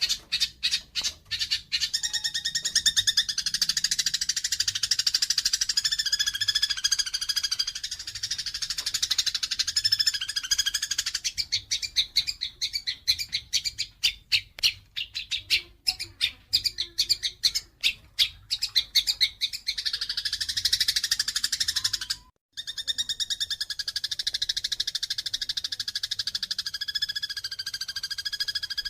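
Eurasian tree sparrows chattering in a fight: a dense, rapid run of harsh chirps that thins to spaced single chirps in the middle, then thickens again. The sound cuts out briefly about two-thirds of the way through.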